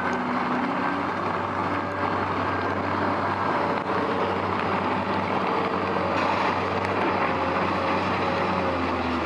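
Truck engine running steadily, with a dense hiss of heavy rain over it.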